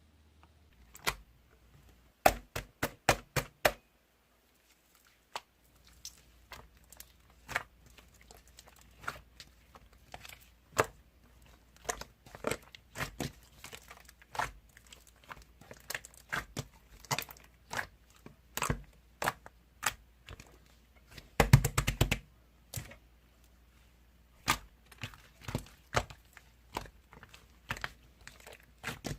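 Irregular crinkling and sharp crackling handling noise, with a dense flurry of crackles about three quarters of the way through.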